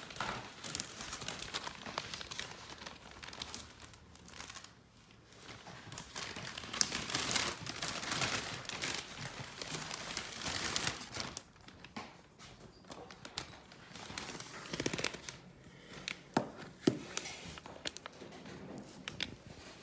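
Irregular rustling and crinkling, as of material being handled, with a few sharp clicks and a brief lull around four to five seconds in.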